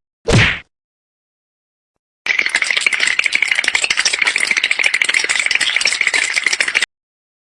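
A dense, very fast rattle of clicks, starting about two seconds in and lasting about four and a half seconds before cutting off sharply. A brief sound comes just before it, near the start.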